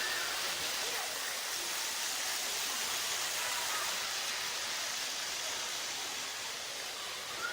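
Steady hiss-like running noise of model trains on a shop layout, even throughout with no distinct clicks or whistles.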